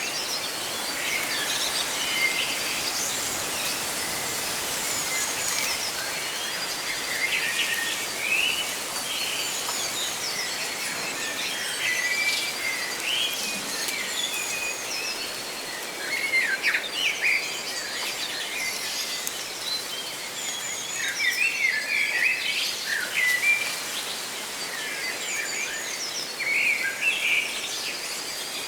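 Many small birds chirping and calling in quick short phrases throughout, over a steady rustle of leaves in the wind.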